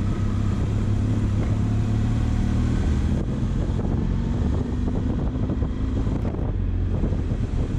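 Benelli motorcycle engine running steadily while the bike is ridden through traffic, with wind noise on the microphone.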